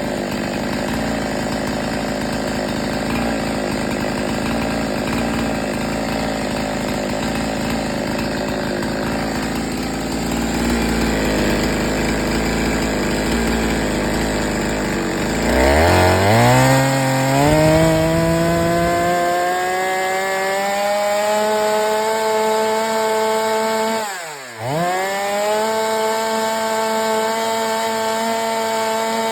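Husqvarna 372XP two-stroke chainsaw, rebuilt with a 52 mm big-bore kit and ported, running hard. About halfway through its pitch climbs quickly and then holds high and steady, dipping sharply once near the end before climbing back.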